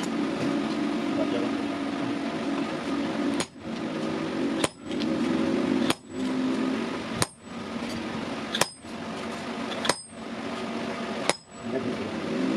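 Hammer blows on steel, about one every 1.3 seconds, each with a short bright metallic ring. They begin about a third of the way in, over a steady background noise.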